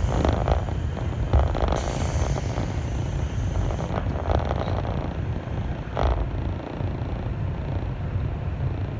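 Steady low hum and rumble of a standing 211 series electric train's onboard equipment, heard from inside the carriage. A hiss comes in about two seconds in and fades about two seconds later, and a single click follows about six seconds in.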